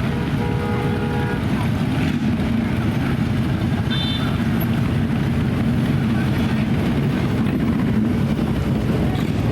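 Fire apparatus engines rumbling steadily as the trucks roll past. A short pitched tone sounds about half a second in.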